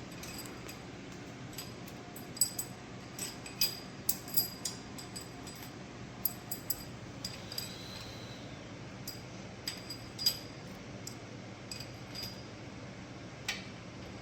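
Irregular light metallic clicks and clinks, about fifteen spread through the stretch, as steel pushrods are set down into a Chrysler 318 V8's lifters one by one. A low steady hum runs underneath.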